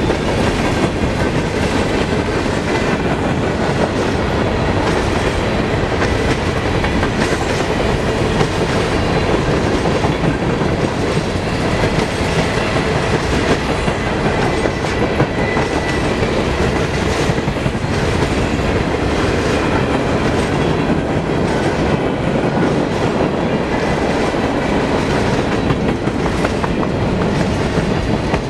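Freight cars of a grain train rolling past: a steady, loud rumble of wheels on rail with repeated clickety-clack over the rail joints.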